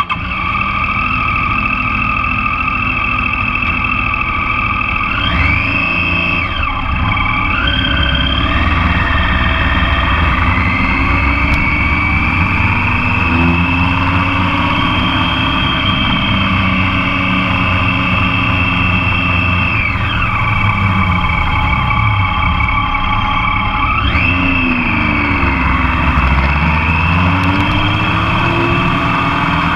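Motorcycle engine running under way, heard close up from the passenger foot peg, its pitch climbing as it accelerates a few seconds in, falling again past the middle, and climbing once more near the end.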